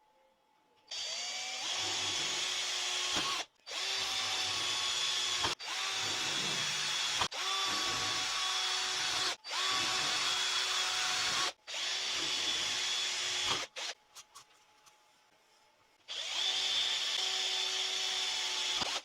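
A small electric motor, drill-like, runs in seven short bursts of about two seconds each. Each burst spins up with a brief rise in pitch, then holds a steady whine before cutting off. A few light clicks fall in a pause about three-quarters of the way through, before a last run near the end.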